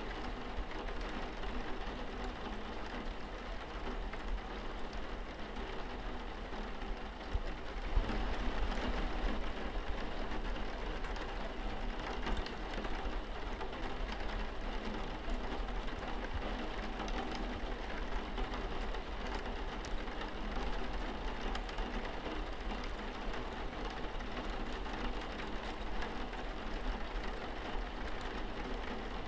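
Steady rain falling on a window pane, an even hiss dotted with small drop ticks. A faint steady low hum sits beneath it. The rain grows slightly louder about eight seconds in.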